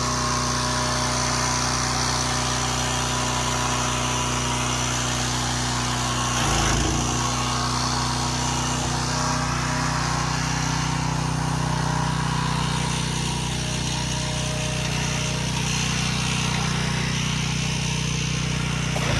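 A small engine running steadily at a constant speed, with a brief change in the sound about six and a half seconds in.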